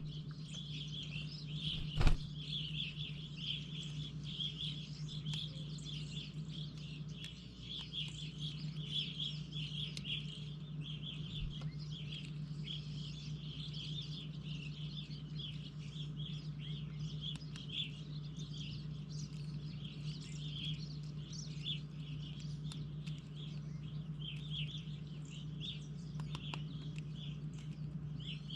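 Many small birds chirping and twittering continuously, over a steady low hum. A single sharp knock comes about two seconds in.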